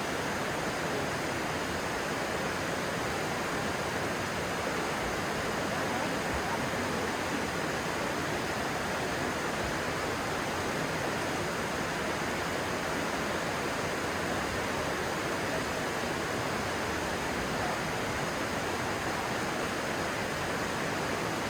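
Stream water flowing, a steady, even rush that holds constant throughout.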